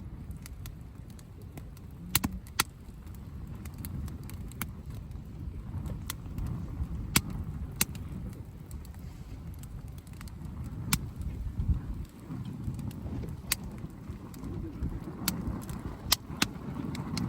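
Wood campfire crackling, with sharp pops at irregular intervals over a steady low rumble.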